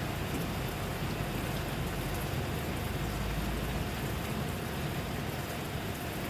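Steady rain falling, an even hiss of drops, with a low rumble swelling about two to four seconds in.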